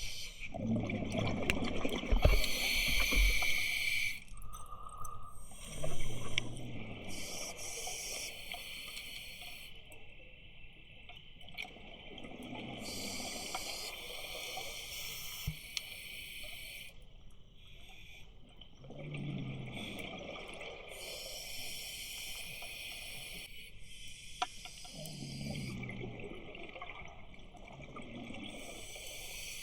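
Scuba diver breathing through a regulator underwater: a hiss on each inhale and a low burble of exhaled bubbles, about one breath every six seconds.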